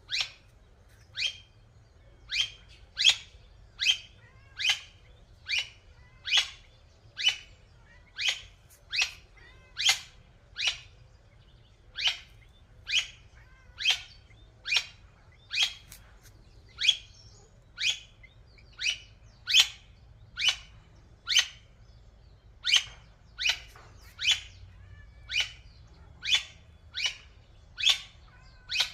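An animal's short, high-pitched chirping calls repeated at a steady pace of a little more than one a second.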